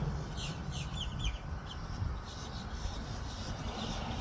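A bird calling: a quick series of short, high, falling chirps in the first second or two, with a few fainter ones later, over a steady low rumble.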